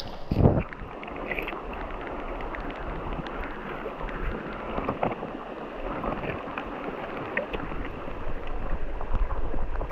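Steady rushing noise of moving water mixed with wind on the microphone, with a heavy thump about half a second in and a few small knocks.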